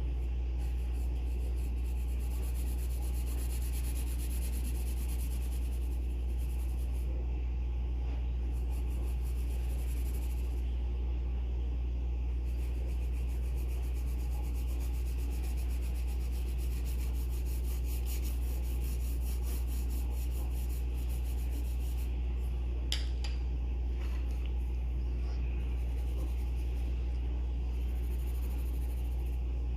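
Pencil scratching on paper in several stretches of strokes with short pauses, over a steady low hum. A single sharp click about three quarters of the way through.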